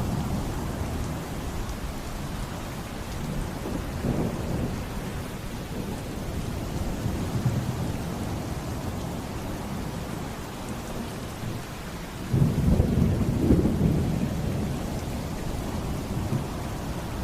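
Thunderstorm ambience: steady rain with low rolling thunder. A louder rumble breaks in suddenly about twelve seconds in and lasts about two seconds.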